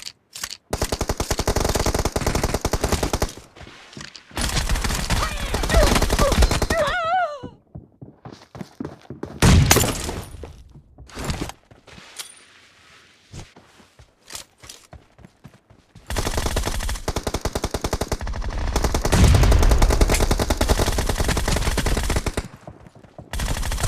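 Video game automatic gunfire in several long rapid-fire bursts, with a louder bang about nine and a half seconds in and quieter stretches between bursts.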